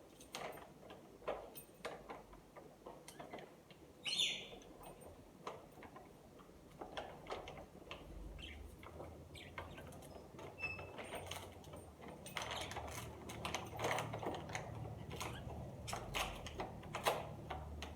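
Scattered clicks, knocks and rattles of hands handling items at a wire budgie cage and their packaging, with a budgerigar's brief loud chirp about four seconds in and a faint short peep near the middle.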